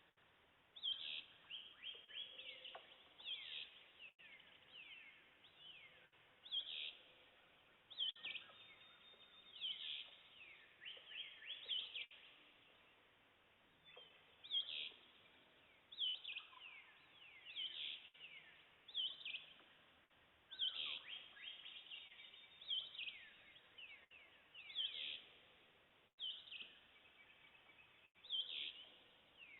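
Several songbirds singing in a faint dawn chorus: clear whistled notes, each sliding down in pitch, repeated every second or two and overlapping one another.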